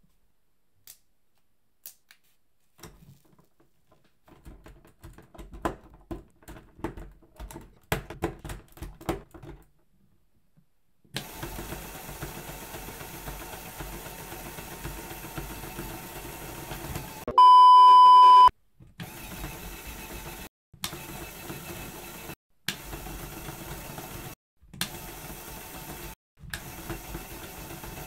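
Scattered clicks and rattles of LEGO plastic parts, then a small motor running steadily with plastic parts rattling, as a LEGO Technic earthquake test rig shakes the model towers. The running sound is broken by several sudden cuts, and about two thirds of the way in a loud steady beep sounds for about a second.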